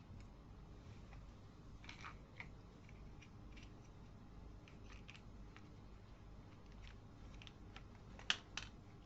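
Small plastic toy building pieces clicking and tapping now and then as they are fitted together, with two sharper clicks near the end.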